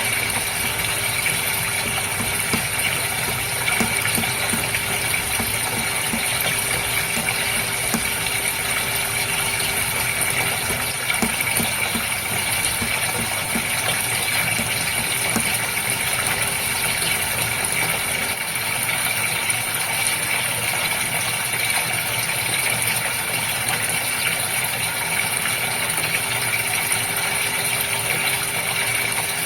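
Water splashing and trickling steadily in a goldfish tank, over the even hum of its water pump.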